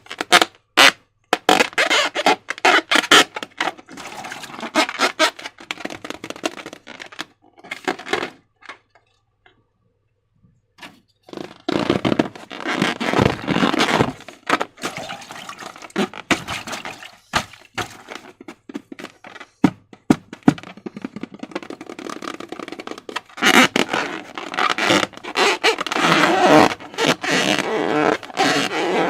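Slime being squished and worked by hand, making irregular wet clicks, pops and crackles, with a short silent pause about nine seconds in.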